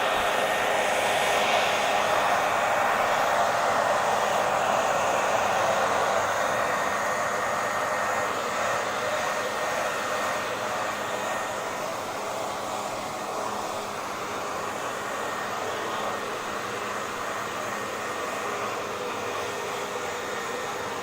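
Electric hair dryer running continuously: a steady rushing blow with a faint whine in it, which eases slightly in level after about six seconds.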